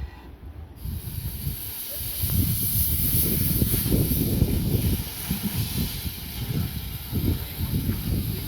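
Steam hissing from the Buffaud-Robatel 031T tank locomotive No. 3714, starting abruptly about a second in and holding steady, over a low, uneven rumble.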